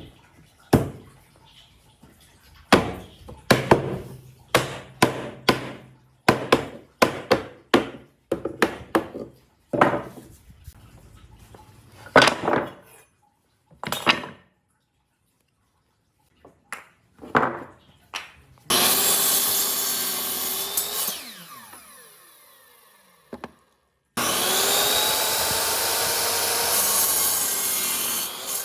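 Wood being worked with hand tools: a run of sharp strokes and knocks on wood. Then a power tool runs twice, winding down with falling pitch after the first short run, and the second run goes on steadily.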